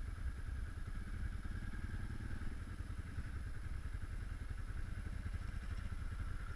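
Geon Scrambler 250 motorcycle engine running steadily under way, a low, even rumble of firing pulses with no revving up or down.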